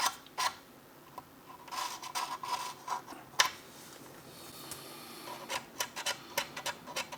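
Cotton swab rubbing and dabbing powder pigment onto a plastic scale model, close to the microphone: scratchy rubbing strokes with scattered light taps, turning into a quick run of taps near the end.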